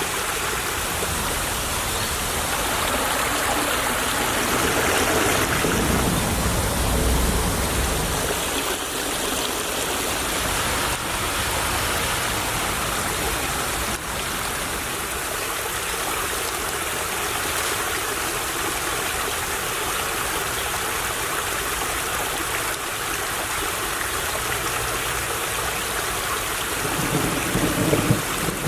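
Small stream babbling steadily over stones. A low rumble swells for a few seconds early on and again near the end.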